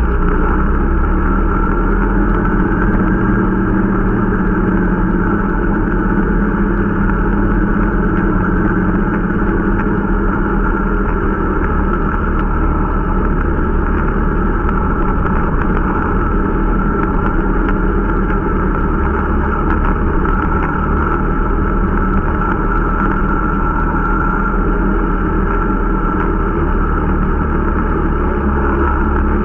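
Irbis Dingo T125 snowmobile's small engine running at a steady cruising pace, holding an even pitch, while the new machine is being run in.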